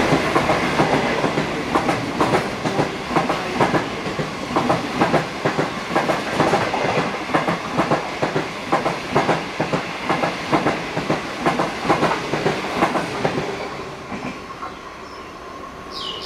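25Z passenger coaches of a through train rolling past, their wheels clicking rhythmically over the rail joints. The clatter fades away near the end as the last coach passes.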